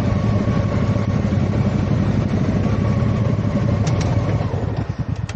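Motorcycle engine running steadily. Near the end its revs drop, and it settles into a slow, even pulsing idle as the bike comes to rest.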